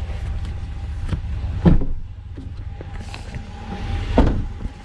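Knocks and thuds of people climbing out of a pickup truck, the loudest about one and a half seconds in and again near the end, over a steady low rumble.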